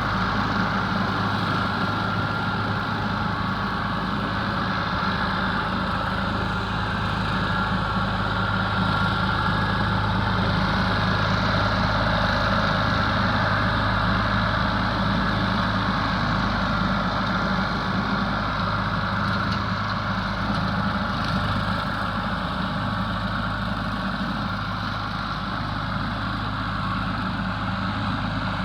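Ford 4000 tractor's three-cylinder diesel engine running steadily at a constant speed while driving a seven-foot rotary cutter (bush hog).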